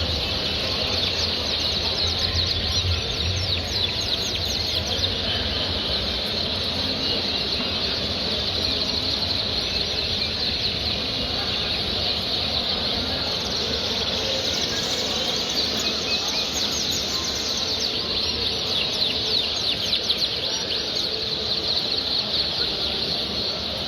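Many caged show birds chirping and singing at once: a dense, continuous high twittering with no single song standing out.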